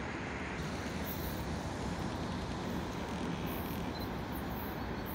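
Steady low rumble and hiss of a distant electric locomotive approaching with its train.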